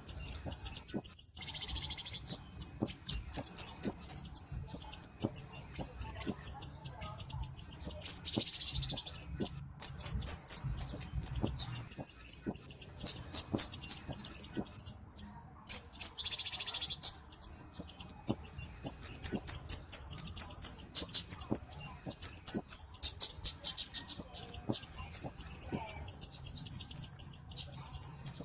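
Flowerpecker (cabe-cabean, Kemade) song: long trains of very rapid, high-pitched ticking chips, broken by a few short pauses.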